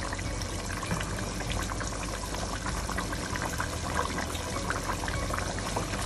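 Pot of curry chicken back bubbling at a simmer, with many small pops and gurgles over a steady low hum.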